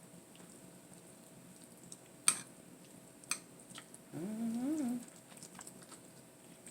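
A spoon clinks sharply against a glass cooking dish, twice, about a second apart, while food is scooped in. Then comes a short pitched vocal sound, under a second long, whose pitch rises and then falls.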